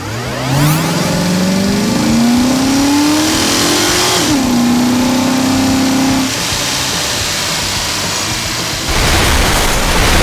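Vehicle engine sound effect in an animated cartoon, revving up: the pitch climbs steadily for about four seconds, dips, and holds steady for about two more, then a loud noisy rush comes in near the end.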